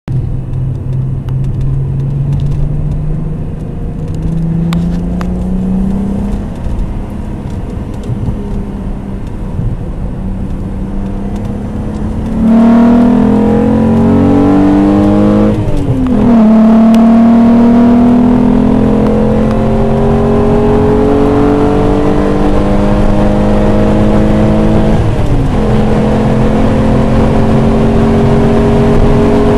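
Volkswagen VR6 narrow-angle V6 engine accelerating hard, heard from inside the cabin as the car runs up toward 200 km/h. The engine note climbs and turns suddenly louder about twelve seconds in as the throttle opens wide. Its pitch drops sharply twice at upshifts and climbs again after each.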